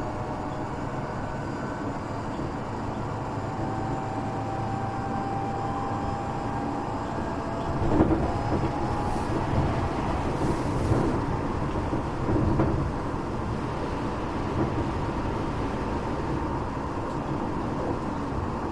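Tokyo Metro 8000-series commuter train heard from inside the car while running between stations: a steady rumble of wheels on rail with a faint running tone. Heavier knocks come about eight seconds in and again around twelve seconds.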